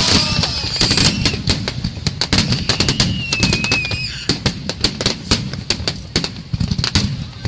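Fireworks finale heard from close by: dense, rapid bangs and crackling from many shells bursting in quick succession, with a short whistling tone about three seconds in.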